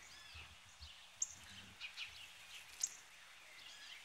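Faint birds chirping in the background: scattered short high chirps and a few curving calls, the two sharpest about a second in and near the end, over a quiet outdoor hiss.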